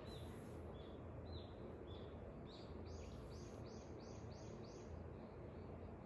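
Songbirds singing: short chirps repeated about twice a second, then a quick run of six higher notes a little under halfway through, over a steady low background rumble.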